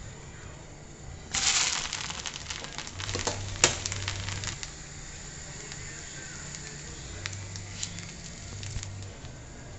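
A crepe sizzling in a hot frying pan. A loud burst of sizzling starts a little over a second in and fades over about a second, followed by a run of crackles with one sharp click, then a fainter sizzle with scattered ticks.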